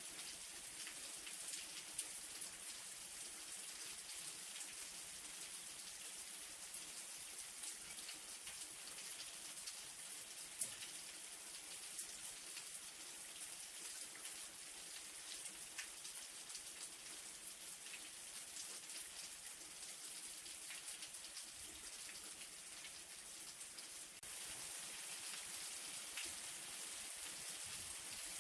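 Light rain falling steadily, a soft even hiss with many small drop patters and one sharper drop tick about ten seconds in.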